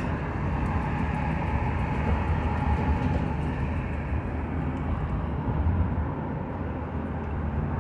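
Steady low rumble of a vehicle on the move: engine and road noise that holds at an even level, with a faint steady hum on top.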